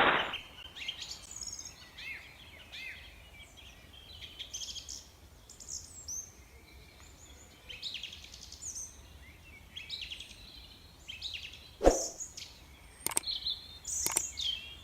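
Small birds chirping and twittering: many short, high, quick up-and-down calls. A few sharp clicks come in near the end.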